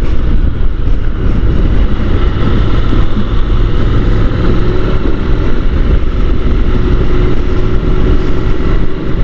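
Honda NC750 DCT motorcycle's parallel-twin engine running at a steady cruise, a faint even drone under heavy low rumbling wind rush on the rider's microphone.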